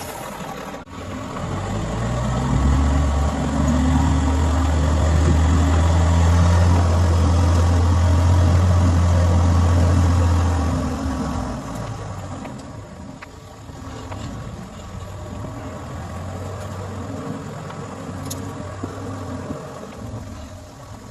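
Car engine revving up about two seconds in and held at higher revs for around eight seconds, then dropping back to a lower, quieter run. These are typical of a driver trying to power a stuck car out.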